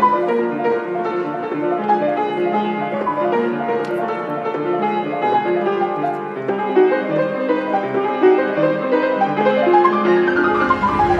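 Solo piano playing, a steady run of notes over held chords. A low rumble rises underneath near the end.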